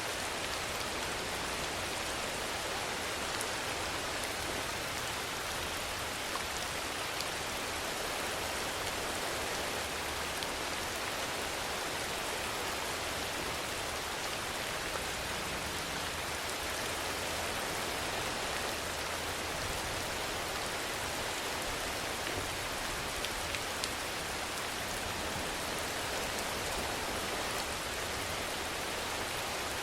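Steady rainfall, an even hiss of rain with a few sharp drop ticks scattered through it.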